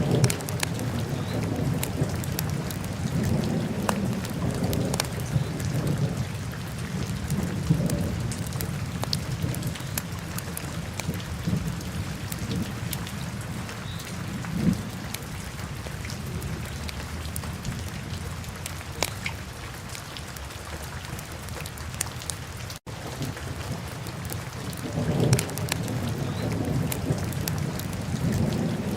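Wood fire in a fireplace crackling and popping over a low rumble that swells and fades, with a brief break about three-quarters of the way through.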